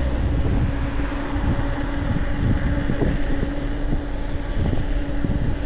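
E-bike's electric assist motor whining at a steady pitch, over wind on the microphone and tyre rumble, with frequent knocks and rattles from the bumpy, potholed road.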